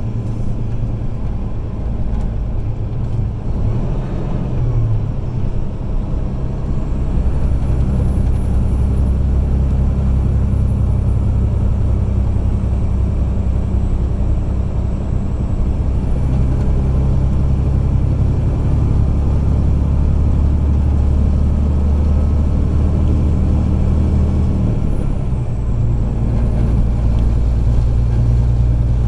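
Semi truck's diesel engine running under load, heard from inside the cab along with road noise. The engine note changes pitch a few times, about 4 seconds in, about 16 seconds in and again near 25 seconds, and a faint high whine rises and falls along with it.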